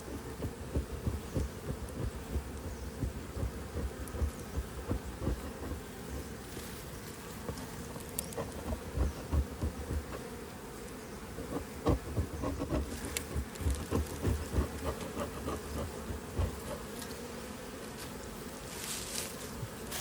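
A mass of honeybees buzzing: a steady, many-bee hum, with irregular low bumps throughout.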